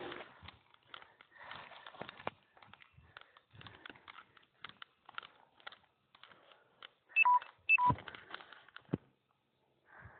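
Footsteps on a mountain trail, irregular steps and rustles, with two short electronic beeps about half a second apart a little past the middle, the loudest sounds here.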